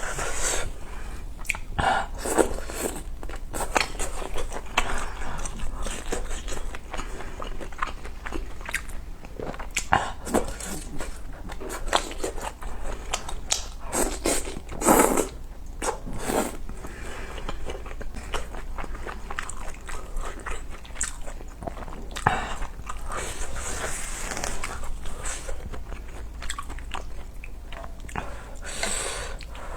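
Close-miked eating of spicy ramyun noodles, rice cakes and dumplings: steady chewing and biting with irregular wet mouth smacks and clicks.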